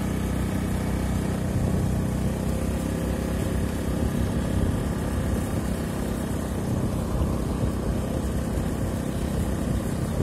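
A small motorbike engine running steadily at low speed, with wind rumble on the microphone.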